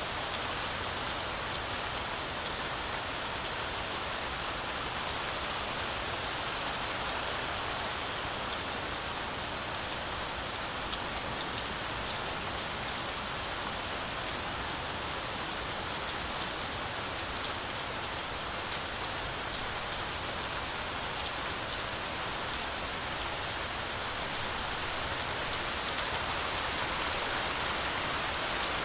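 Heavy rain falling steadily through a forest canopy, a dense even hiss with scattered individual drop ticks.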